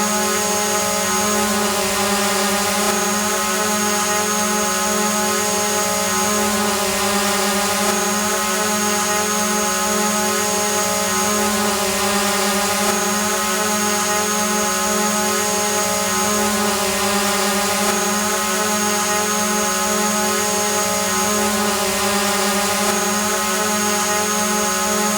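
Drone hovering, its propellers and motors giving a steady buzzing hum over a rushing hiss. A thin high whine on top drops out briefly every few seconds.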